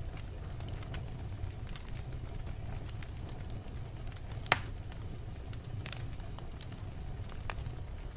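Logs burning in a fireplace: a steady low rumble of flame with scattered crackles and one sharp pop about four and a half seconds in.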